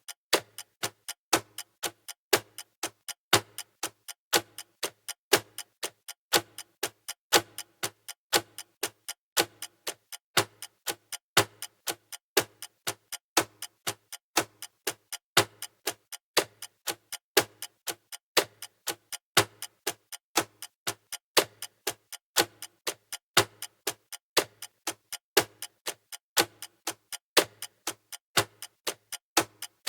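Clock-style ticking sound effect of a countdown timer: evenly spaced sharp ticks that go on without a break, with a louder tick about once a second and weaker ticks between.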